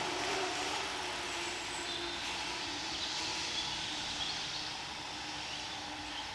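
Outdoor background noise with a low engine hum that slowly fades away.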